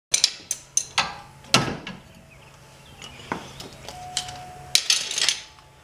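Hand tools and parts being handled during garage work, about a dozen sharp knocks and clanks spread over the few seconds, under a faint steady hum.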